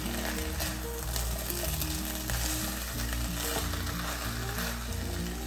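Chicken and corn filling sizzling in a pot as a silicone spatula stirs it, a steady frying hiss. Soft background music with low held notes plays underneath.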